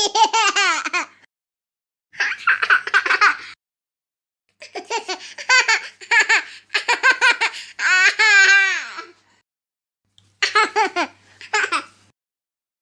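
A run of laughing sound effects: about four separate bursts of high-pitched, pulsing laughter with short silences between them. One long laugh in the middle slides down in pitch near its end.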